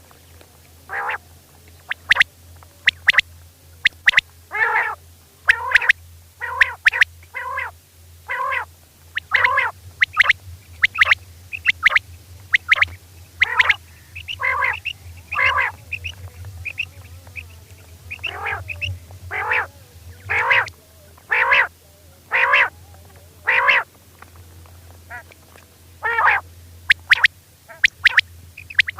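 Female quail giving short repeated calls, about one a second, some with a sharp clicking edge, over a steady low hum.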